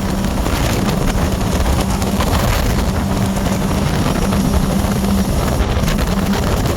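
Scarab 165 ID jet boat's three-cylinder Rotax 1503 4-TEC engine running at speed: a loud, steady drone with a low hum that fades in and out, under wind buffeting the microphone.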